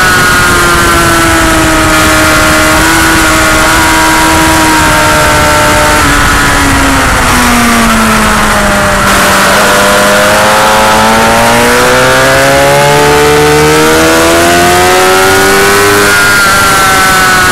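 Motorcycle engine at speed on a race track: the revs fall for several seconds as it slows for a corner, with a step partway down, then climb steadily as it accelerates out, dropping once near the end at a gear change. A steady loud rush of noise runs underneath.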